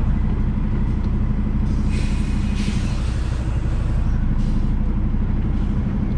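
Semi truck's diesel engine running steadily as the truck is backed up, with a brief hiss about two seconds in.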